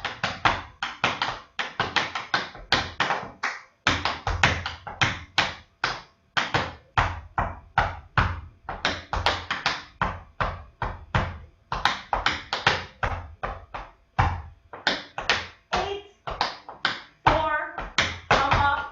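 Tap shoes striking a hard floor in quick rhythmic strings of taps, without music: the steps of a Shim Sham tap routine being danced through.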